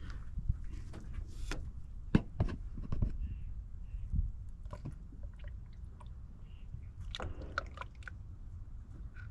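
Plastic motor-oil quart bottles being handled and opened while the engine is topped up with oil: a string of irregular sharp clicks and crackles, bunching into a quick cluster about seven seconds in.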